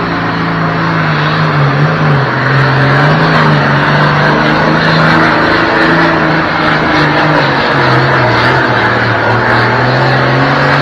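Minneapolis-Moline G1000 tractor engine running hard under full load during a pull, its pitch wavering up and down.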